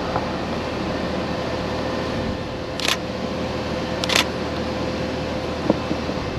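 DSLR camera shutter firing in two short bursts of clicks, about a second apart, over a steady background hiss.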